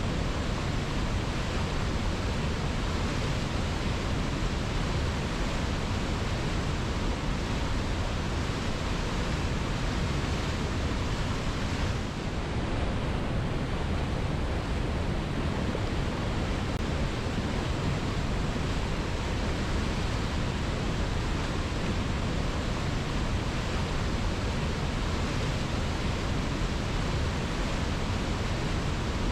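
Waterfall rushing steadily, a dense even roar of falling water with no pauses, dipping slightly for a moment about twelve seconds in.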